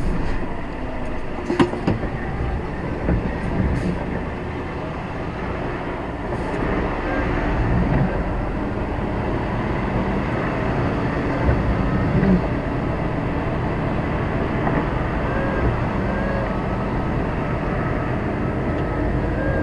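A lorry's diesel engine and running noise heard from inside the cab: a steady low rumble with rattles, and a few sharp knocks in the first several seconds.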